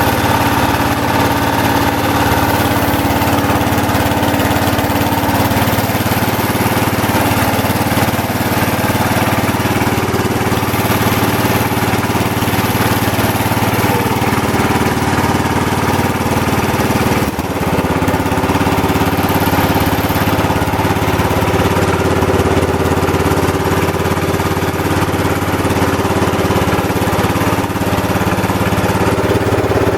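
Kohler K321 single-cylinder engine of a 1970 Wheel Horse GT-14 garden tractor running steadily, freshly rebuilt with new piston and rings and running smoothly. The sound drops briefly about 17 seconds in, then carries on.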